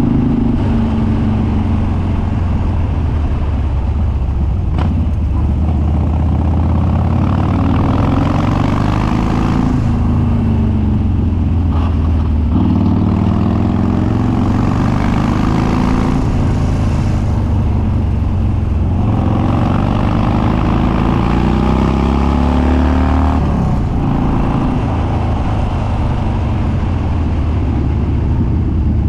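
Harley-Davidson Dyna Street Bob's Twin Cam V-twin, running on Stage 2 cams through an unbaffled dual exhaust, pulling hard under acceleration. The pitch climbs and drops sharply at each gear change, about four times.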